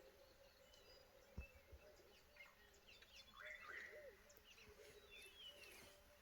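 Faint wild bird calls: scattered chirps and short whistled phrases, with a soft thump about a second and a half in.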